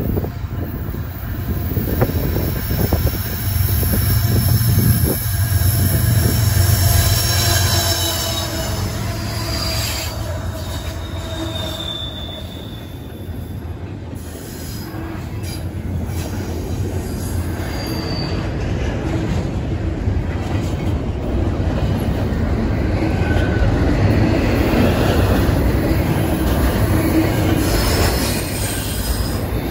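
A CSX freight train led by two GE Evolution-series diesel locomotives passes close by. A low diesel rumble is loudest in the first several seconds. Then double-stack container cars roll past with steady rail noise, clickety-clack and brief high-pitched wheel squeals.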